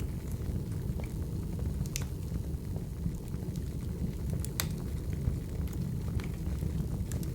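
Crackling wood fire: a steady low rumble of flames with scattered sharp pops and snaps of burning firewood, the loudest pop a little past halfway.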